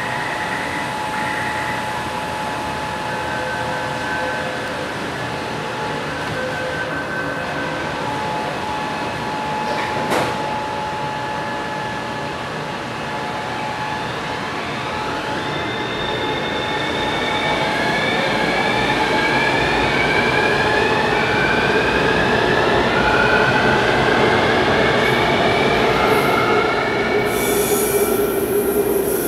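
Taipei Metro Circular Line train pulling away from a station. After a sharp click about ten seconds in, its drive whine sets in and climbs in pitch in steps as the train gathers speed, growing louder. A high hiss comes in near the end.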